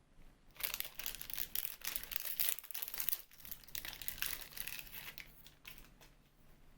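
Packaging being crumpled and torn open, a dense crinkling that starts about half a second in and dies away near the end.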